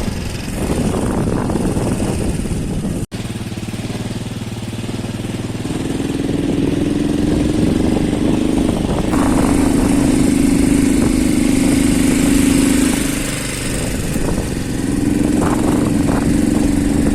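Motorcycle engine running while being ridden, heard from the bike. Its note firms up into a steady hum about six seconds in, eases off briefly near the end and then picks up again. The sound drops out for an instant about three seconds in.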